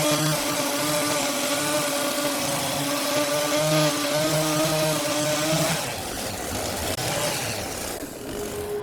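Sawmill machinery running with a steady pitched whine over a hiss. The whine stops about six seconds in, and a different single tone starts near the end.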